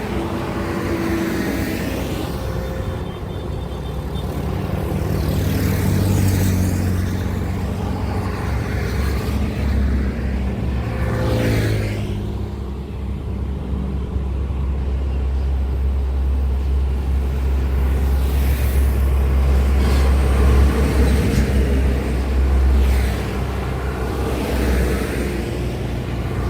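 Heavy road traffic, mainly trucks, passing close by one after another. A deep, steady engine drone is joined by the rising and falling road noise of each vehicle going past.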